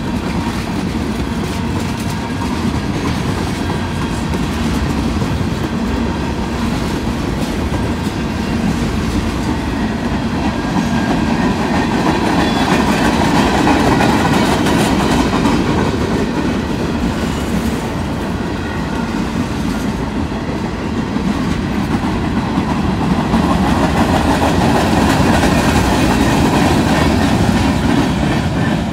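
Freight train of covered hopper cars rolling past close by: the steady rumble of steel wheels running on the rails, swelling louder twice.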